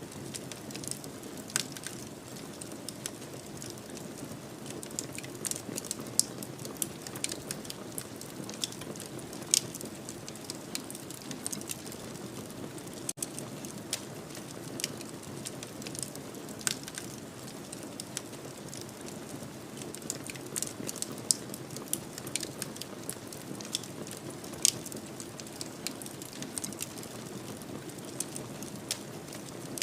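Wood fire in a fireplace crackling: a steady low rushing with frequent sharp pops and snaps scattered throughout.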